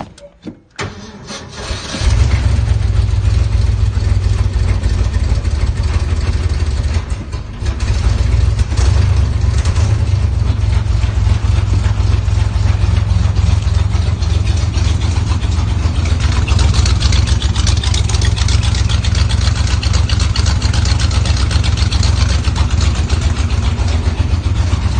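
1976 Ford F-150's 390 cubic-inch V8 on a cold start at 9°F after three weeks sitting: a brief cranking, then it catches about two seconds in, stumbles briefly around seven seconds, and settles into steady running.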